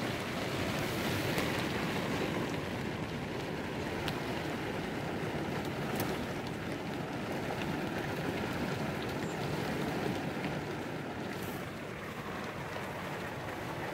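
Thunderstorm rain falling steadily on a camper van's roof and windows: an even hiss with a few sharp ticks of single drops.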